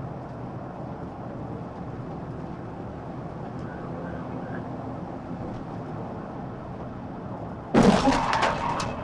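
Steady road and engine noise of a police car in pursuit at about 80 mph. About eight seconds in, a sudden loud crashing burst breaks in: the TVI contact and the pickup's crash.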